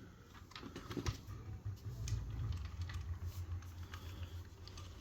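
Light scattered clicks and taps of a 1/18 scale diecast model car being handled and turned over, over a low steady hum.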